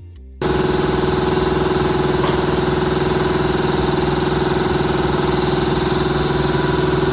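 Background music ends, and about half a second in it cuts abruptly to a car engine idling, loud and steady, with no change in speed.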